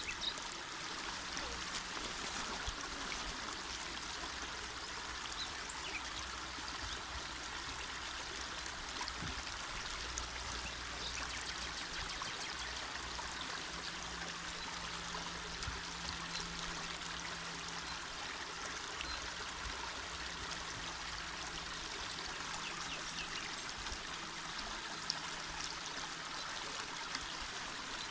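Small mountain river flowing, a steady rush and babble of water.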